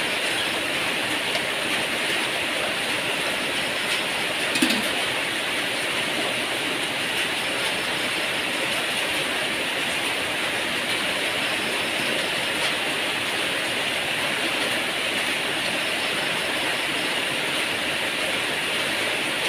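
Heavy rain falling steadily in a storm, an even hiss. A brief knock sounds about four and a half seconds in.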